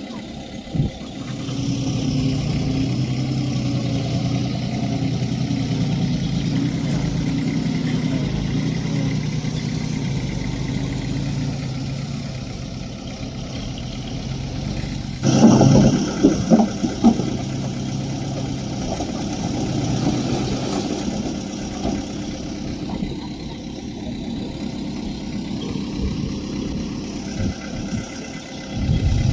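Diesel engine of earthmoving machinery running steadily, with a sudden louder stretch of knocks and clatter lasting about two seconds roughly halfway through.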